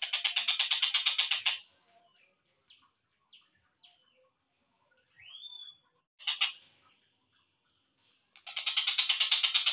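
Tengkek buto kingfisher calls played slowed down: a fast rattling series of about eight notes a second at the start and again near the end, with scattered short chirps and one rising whistled note in between.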